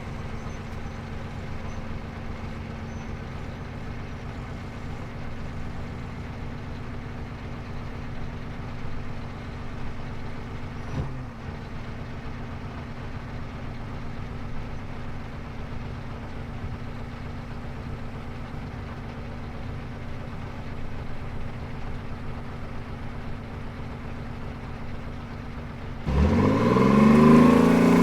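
Armoured personnel carrier's engine idling steadily with a low drone, then revving up suddenly and loudly near the end, its pitch rising.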